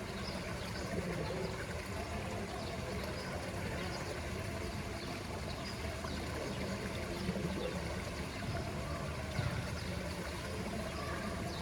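Steady trickling and running water at a poolside, with a low, even rumble underneath.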